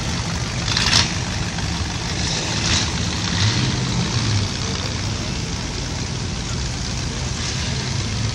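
Engines of old cars in a slow parade running steadily at low speed as they roll by, with brief hissy noises about a second in and again near three seconds.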